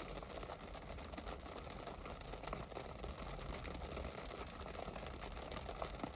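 Steady rain falling, with many small drop ticks over a continuous hiss and a low rumble underneath.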